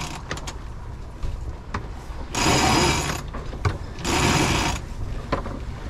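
Genoa sheet hauled in to unroll the furling genoa: the line runs through its blocks and furling gear in two long rushes, about two seconds in and again about four seconds in, with scattered clicks of the hardware between them.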